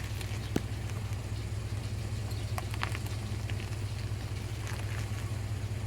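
Steady low engine hum, like a vehicle idling, with a few faint knocks or clicks about half a second in and again around the middle.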